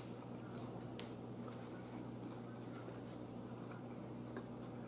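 Faint chewing of battered, fried sweet and sour chicken: a few soft mouth clicks over a low, steady hum.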